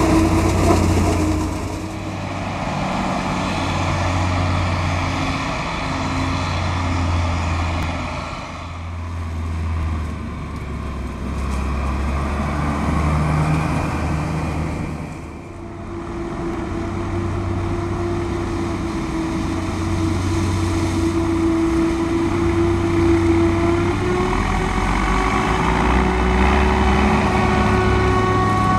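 Heavy diesel farm machinery running continuously. The engine note shifts and the level dips briefly twice, as machines move about.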